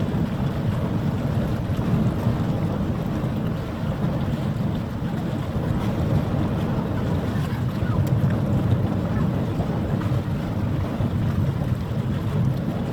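Steady low rumble of wind buffeting the microphone, with no horn or other pitched sound.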